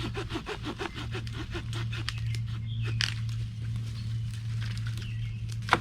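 Hand sawing of wood in quick rapid strokes that stop about a second in, followed by scattered light knocks and one sharp crack near the end, over a steady low hum.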